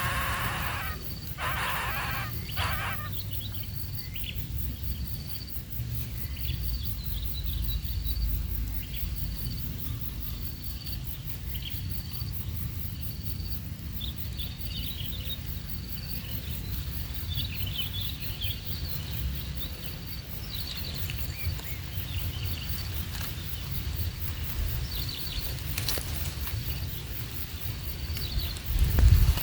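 Outdoor natural ambience. An insect gives a high chirp about once a second, and a few bird calls come in the first three seconds, over a steady low rumble.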